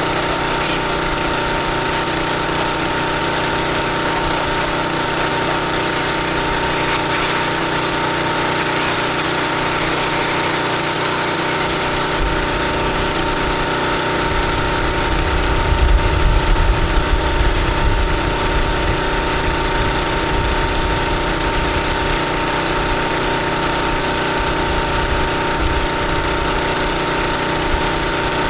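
Pressure washer's engine running steadily with a constant whine, under the hiss of high-pressure water spraying during the rinse. A low rumble comes in about halfway and is loudest a few seconds later.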